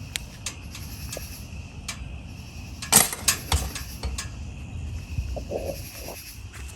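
Light metallic clicks and clinks, scattered through, with one sharp click about three seconds in, over a steady high hiss.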